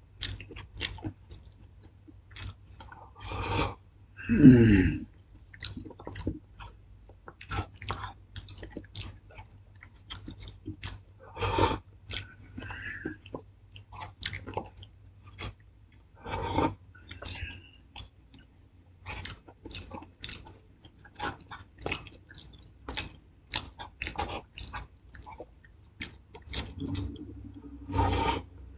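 A person chewing and smacking while eating, heard as many irregular short clicks. About four seconds in comes a short vocal sound that falls in pitch, the loudest moment.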